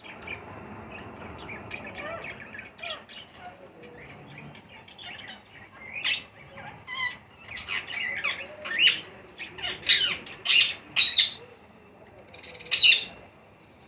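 Baby rose-ringed (ringneck) parakeets calling while being fed: a quick run of faint chirps, then a string of louder short squawking calls, the loudest near the end.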